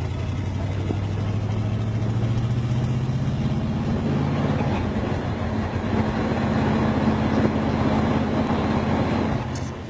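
A Big Block Chevy 454 V8 in a Toyota pickup running steadily under way. Its pitch shifts partway through, and the sound stops abruptly just before the end.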